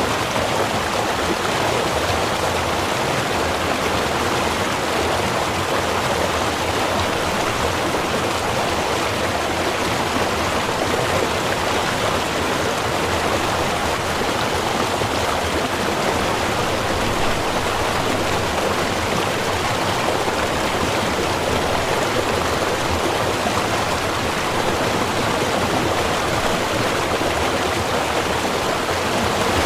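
Small river flowing: steady, even rushing of running water.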